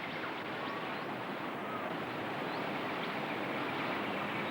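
Steady rush of river water running through a rapid.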